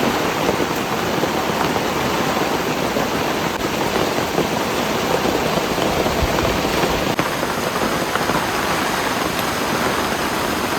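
Heavy rain falling steadily in a forest: a dense, even hiss of rain.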